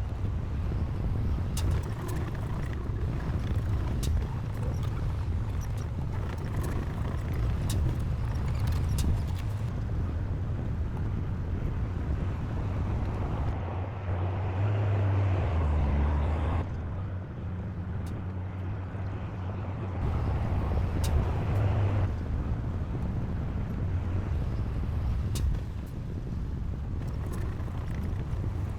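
Diesel engine of heavy earthmoving machinery running steadily, with scattered sharp metallic clanks. The engine sound swells for a couple of seconds around the middle, and again a few seconds later.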